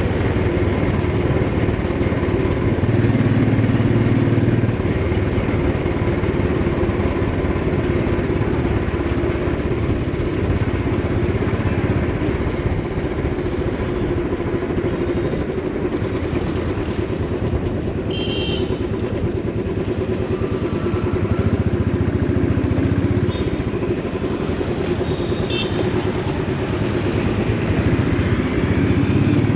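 Motorcycle engine running steadily through a ride, its low drone rising and easing a little with the throttle, with a few brief higher sounds from traffic around it.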